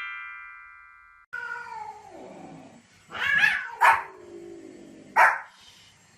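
A dog making a long call that slides down in pitch, then barking three times, loud and short. Before that, a chime-like sound effect of falling notes fades out and cuts off about a second in.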